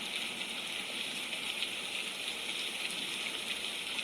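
Steady rain falling hard, an even hiss with small scattered drip ticks.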